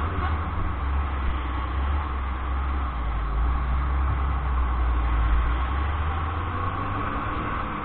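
A vehicle on the move: a steady low engine rumble under even road noise.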